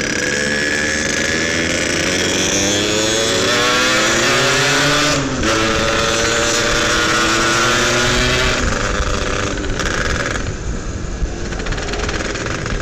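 Yamaha RX-King two-stroke single-cylinder motorcycle engine accelerating while riding: its pitch climbs for about five seconds, drops suddenly at a gear change, climbs again, then falls away as the throttle is eased about two-thirds of the way through.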